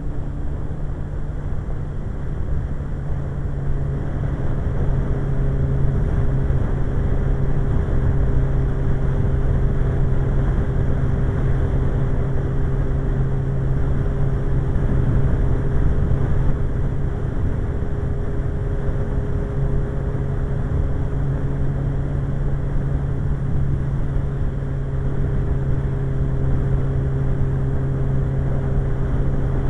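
Suzuki GSX-R1100's inline-four engine running steadily at cruising speed, mixed with the rush of wind, heard from the rider's position. It gets a little louder about four seconds in.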